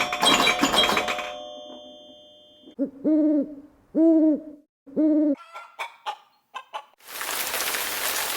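Three low hoots about a second apart, each briefly arching in pitch: an owl calling. Before them a ringing, chime-like sound dies away, a few short chirps follow, and a steady hiss starts near the end.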